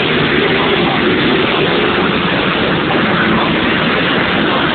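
125cc two-stroke motocross bikes running, heard as a loud, steady, noisy drone.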